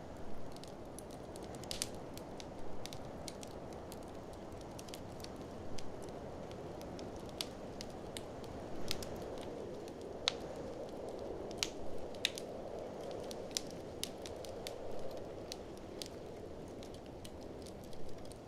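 Wood fire in a fireplace crackling, with sharp irregular pops scattered throughout. Behind it runs a steady low rush of blizzard wind.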